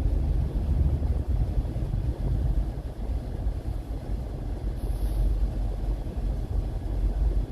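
Steady low rumble of a car driving along a flooded road.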